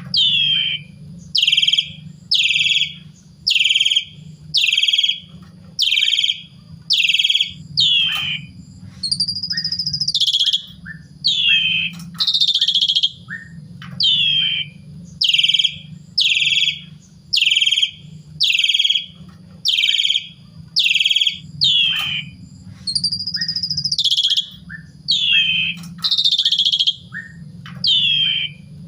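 Asian pied starling (jalak suren) in full song: loud, short, sweeping calls repeated about one and a half times a second, broken twice by a longer rising-and-falling whistle, over a steady low hum.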